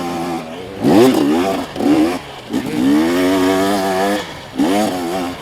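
Two-stroke dirt bike engine, a KTM 250SX, revving in a series of short throttle blips that rise and fall in pitch, with one longer pull held for over a second near the middle.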